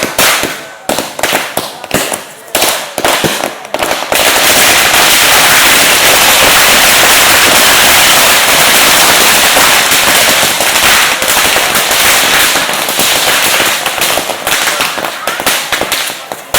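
Loud firecrackers going off close by: a string of separate sharp bangs, then about four seconds in a rapid, unbroken barrage of cracks for several seconds, thinning back to scattered bangs near the end.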